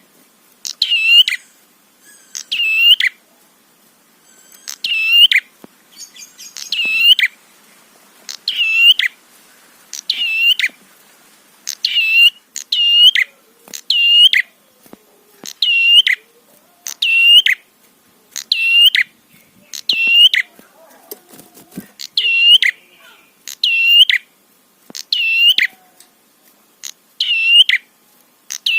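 Prenjak kepala merah (red-headed prenjak, a small Indonesian warbler) calling repeatedly. Each call is a sharp, high double note, repeated about every one to two seconds with short gaps.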